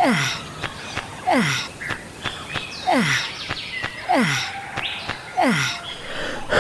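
A man's heavy, exhausted sighs or groans, repeated five times about every second and a half, each a breathy rush with the voice dropping steeply in pitch. They are the sound of someone worn out from work.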